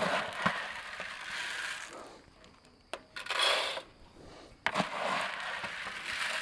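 Rustling and scraping as rabbit feed is handled and put into a hutch, in a few bursts with sharp clicks of metal or wire hutch fittings.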